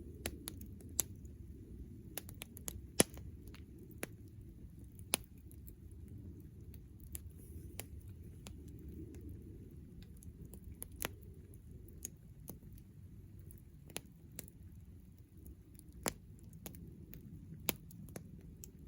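Wood campfire crackling: irregular sharp pops and snaps, a few much louder than the rest, over a steady low rumble.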